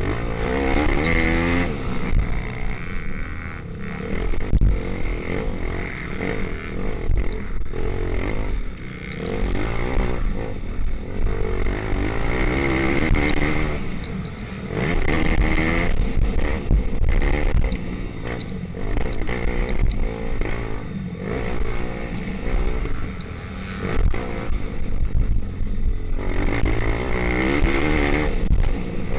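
Pit bikes' small single-cylinder engines racing, revving up and falling back again and again.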